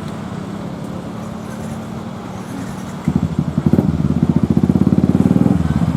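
A small engine running close by: a steady low hum that about three seconds in turns suddenly into a louder, fast, even pulsing beat.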